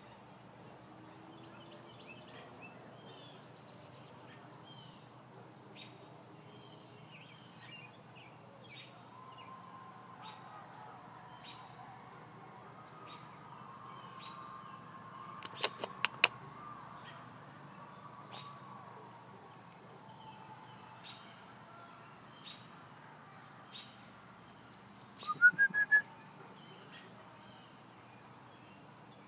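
Faint songbirds chirping throughout, with a few sharp clicks about halfway through and a quick run of loud rising whistled chirps near the end.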